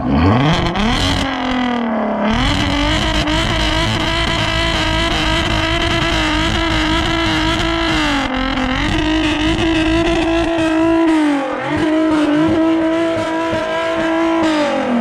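Car engine revved hard: it climbs quickly to high revs, is held there with two brief dips, then drops back near the end.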